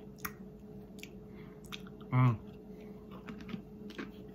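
Someone chewing wavy potato crisps (Pringles Wavy), with scattered dry crunches. A short hummed "mm" about two seconds in is the loudest sound.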